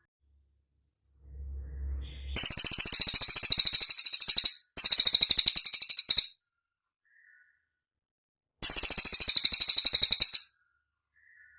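A cililin singing: three bursts of rapid, very high, trilled notes, each about one and a half to two seconds long, with a faint low hum just before the first.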